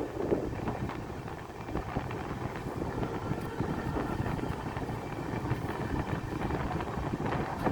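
Amrit Bharat passenger train passing at speed: a steady rush of wheels on rail with fine, quick clicks running through it, and wind buffeting the microphone.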